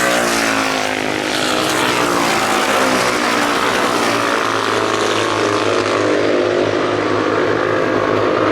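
Matchless G50 single-cylinder racing engine running hard on track, its revs dropping over the first second or so, then holding steady.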